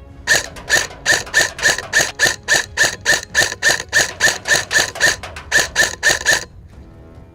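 A rapid, evenly spaced series of sharp clicking shots or pulses, about three a second for some six seconds, with one beat skipped near the end. Each pulse has a short ringing tone.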